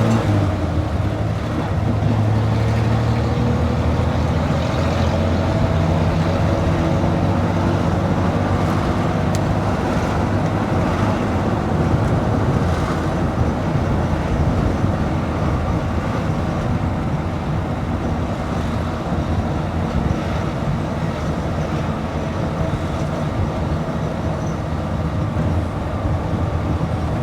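Tuk-tuk engine running steadily under way, with road and wind noise from the passenger seat; the engine pitch rises and falls a few times in the first several seconds as it changes speed.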